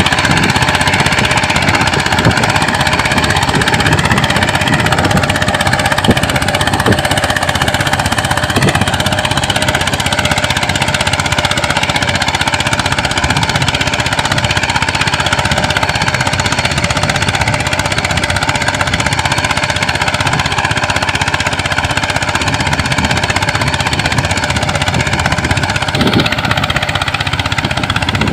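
Mini tractor engine running steadily, with a fast, even, hammering beat.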